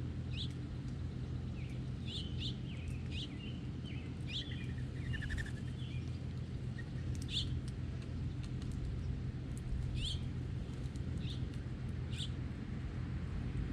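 Songbirds giving short, sharp chirps every second or so, with a brief flurry of calls about four to five seconds in, over a steady low rumble.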